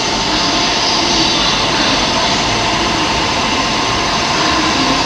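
JR East E531 series electric commuter train moving past along the platform: a steady rumble of wheels and running gear with a few held tones over it.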